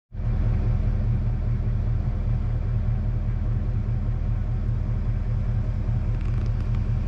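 Chevrolet Suburban driving at a steady pace, a loud, even low rumble of engine and road noise.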